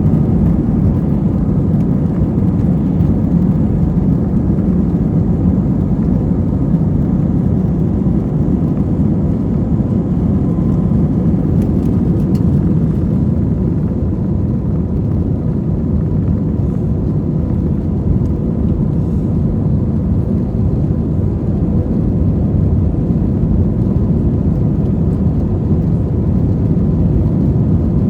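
Steady engine and airflow noise inside the cabin of an Airbus A320-232 under takeoff power, its IAE V2500 turbofans running at a constant pitch, with a deep rumble and a faint steady whine.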